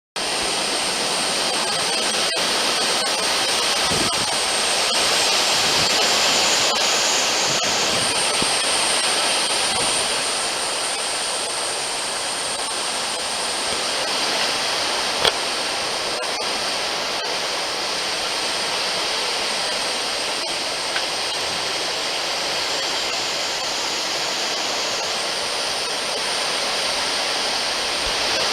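Strong wind of an approaching typhoon, a steady rushing noise that swells and eases slightly, with a couple of brief clicks around the middle.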